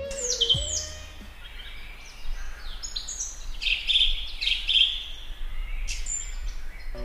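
Birds chirping: a run of short high chirps and quick falling whistled calls over a faint low hum. A held music note fades out in the first second.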